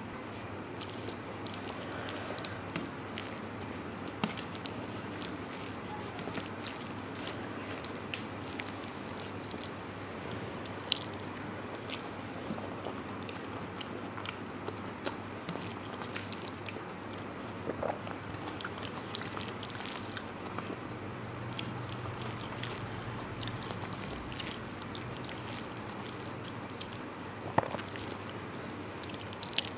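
Close-up chewing and mouth sounds of someone eating rice with jhinge posto (ridge gourd in poppy-seed paste), with many small wet clicks and a few sharper clicks, over a steady low hum.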